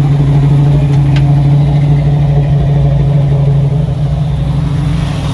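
Car engine idling close by, a steady low drone that drops in level about four seconds in.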